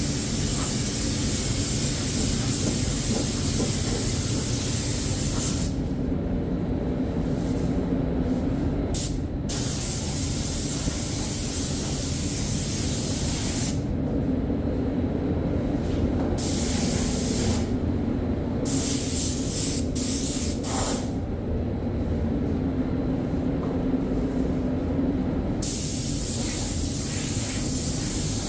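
Paint spray gun hissing as primer is sprayed, in long bursts broken by four pauses of one to four seconds where the trigger is let off. A steady low hum runs underneath throughout.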